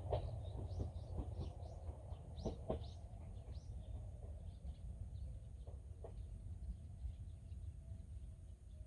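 Small birds chirping in short, quick falling calls, most of them in the first three seconds and thinning out after, over a steady low rumble.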